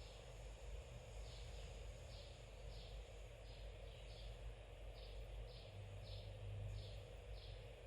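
Faint bird chirping: short, falling chirps repeated about every half second, often in pairs, over a low steady hum.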